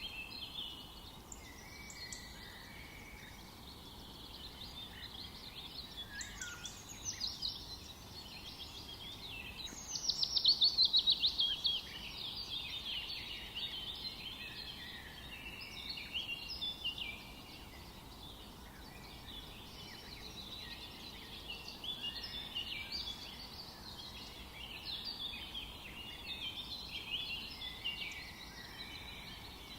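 A chorus of several songbirds singing and chirping at once in a forest. About ten seconds in, one bird gives a louder, rapid trill of many quick notes sliding downward in pitch.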